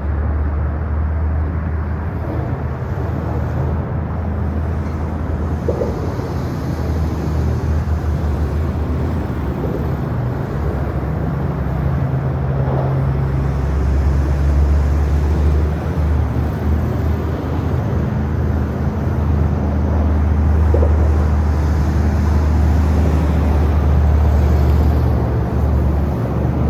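Car engine running under load with a steady low drone that swells and dips a little, as the car is driven in donuts on snow.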